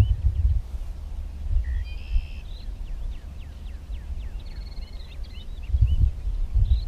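Several birds chirping and calling, with short repeated chirps, a few brief trills and some rising and falling notes, over a steady low rumble.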